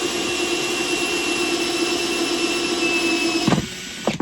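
Electric drill with an 1 1/8-inch hole saw running at a steady whine as it cuts a hole through the hollow plastic of a blow mold. It stops about three and a half seconds in, with one short burst of the drill near the end.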